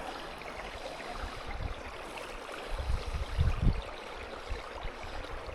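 Steady rushing hiss of running water, with a few low rumbles about three seconds in.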